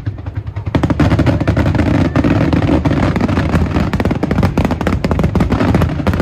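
Aerial fireworks bursting in a rapid, dense barrage: many sharp bangs and crackles a second over a heavy low rumble, setting in about a second in.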